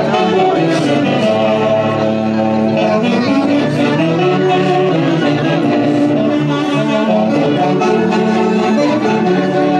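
Andean festival orchestra music led by saxophones and brass, playing sustained held notes that move in steps.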